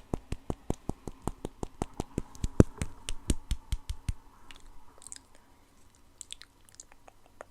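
Rapid tapping, several taps a second, that stops about four seconds in, followed by a few faint, scattered taps.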